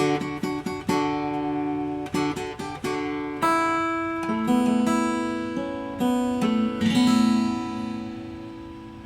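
Guitar played fingerstyle: plucked chords and melody notes picked in quick groups, each ringing on, with the last chord left to fade out over the final couple of seconds.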